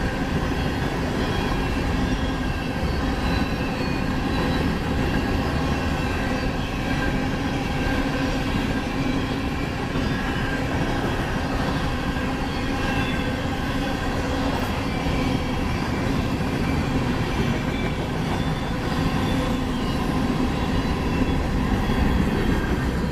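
Empty coal cars of a freight train rolling past close by: steady noise of steel wheels on the rails, with faint steady high tones running through it.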